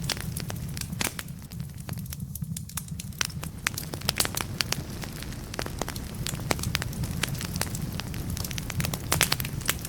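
Firewood burning in a fireplace, crackling with irregular sharp pops over a steady low rumble. The pops thin out for a moment about two seconds in and come thick and fast near the end.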